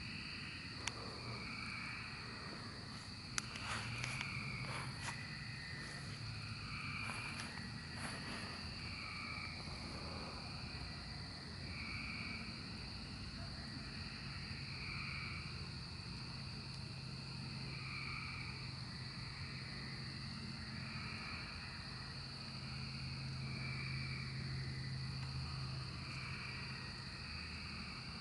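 Chorus of periodical cicadas (Magicicada, Brood XIX): a steady high-pitched drone with overlapping calls that swell and fade about once a second. A few sharp clicks sound in the first eight seconds.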